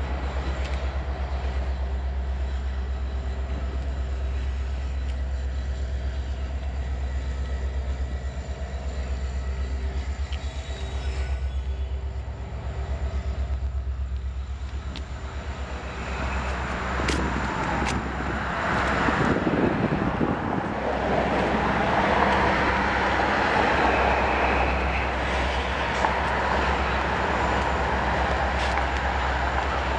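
Steady low vehicle rumble; about halfway through, a louder rushing noise comes in and holds to the end.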